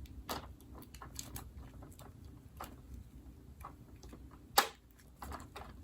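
Scattered light clicks and taps of hands handling small doll-accessory packaging as a bag is opened, with one sharp, louder click about three-quarters of the way through.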